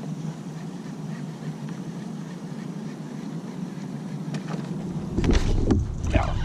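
Steady outdoor noise from a kayak on open water, then wind buffeting the microphone as a low rumble from about five seconds in, with a few light clicks.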